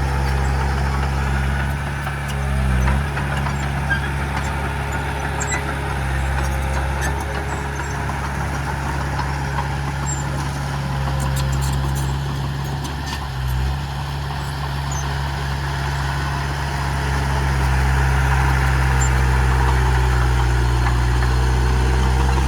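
Heavy diesel engine of earthmoving machinery running steadily, dipping briefly in pitch twice, then louder from about three quarters of the way through as it takes more load.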